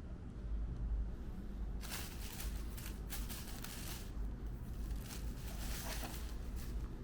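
Takeaway packaging handled as it is opened: irregular paper rustling and crinkling over a low hum, starting about two seconds in.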